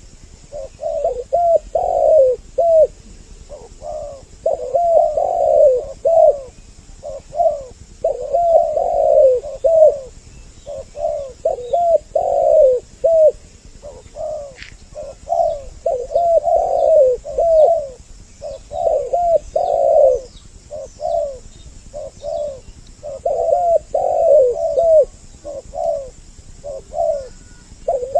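Two spotted doves (tekukur) cooing over each other, repeating their short phrases of coos without a break, as in a lure call for attracting doves. Faint high chirps sound above them.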